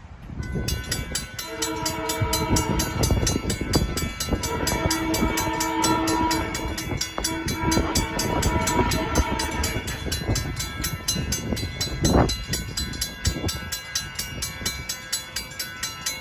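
A SEPTA commuter train passes, sounding its horn in several blasts over the first ten seconds, with a low rumble underneath. Over it, a railroad crossing warning bell rings rapidly and evenly throughout.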